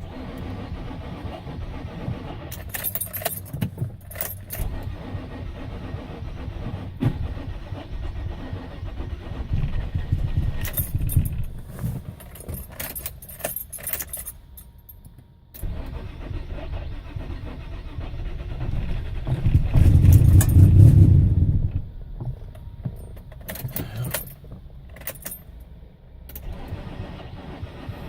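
1999 Nissan Maxima's engine being started with difficulty, running rough and uneven, dipping about fifteen seconds in and swelling loudest about twenty seconds in. The owner says it is misfiring. A key ring jangles in several short bursts.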